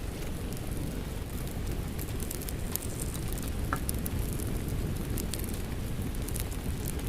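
Fireplace fire crackling, with scattered sharp pops over a steady low rushing, blended with falling rain.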